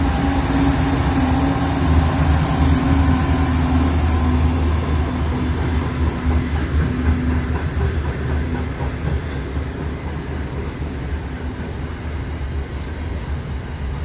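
A train running past on the line, a steady low drone with a held tone that weakens and fades over the second half as it moves away.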